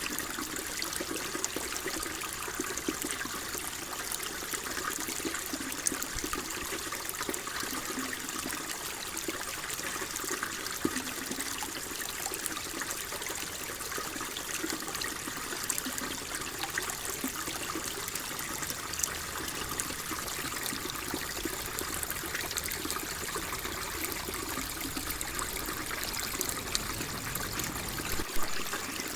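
Flowing water trickling and splashing steadily, an even hiss of moving water.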